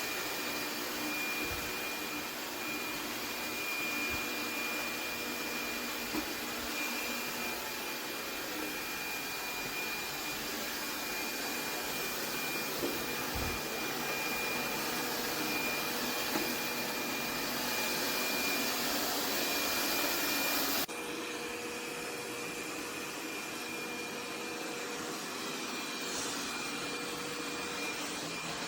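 Laresar robot vacuum running: a steady whirring suction noise with a thin high whine, and a few light knocks. About 21 s in the sound changes abruptly, dropping slightly in level and losing its highest hiss.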